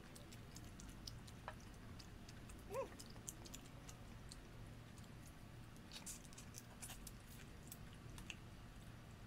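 Close-up eating sounds: lip smacks, chewing and small wet clicks as boiled shrimp are peeled by hand and eaten. A brief rising-and-falling squeak sounds once, about three seconds in.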